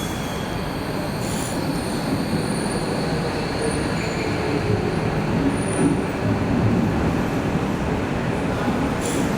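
Docklands Light Railway train running along the track, with steady rumble and faint, intermittent high wheel squeals.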